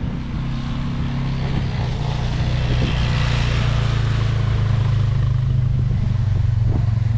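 Two-stroke chainsaw running at high revs and cutting through ash wood, a steady engine note with loud cutting hiss.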